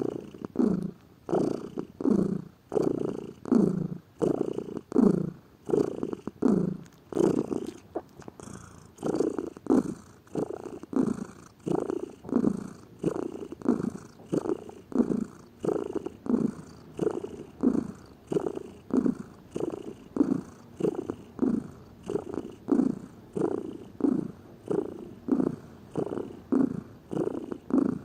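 Domestic cat purring steadily, in an even rhythm of about three strokes every two seconds as it breathes in and out.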